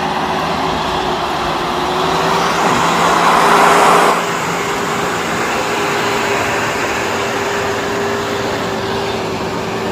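Pickup truck engine running steadily under load. A louder rushing swell of noise builds a few seconds in and cuts off abruptly about four seconds in.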